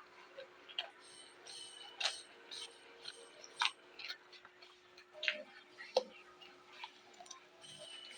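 Close-up crunching and chewing of raw vegetables: irregular crisp crunches, several a second, over a faint steady hum.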